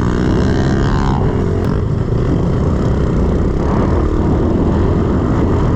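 A 110cc four-stroke pit bike engine running hard while being ridden, its revs rising and falling as the rider works the throttle.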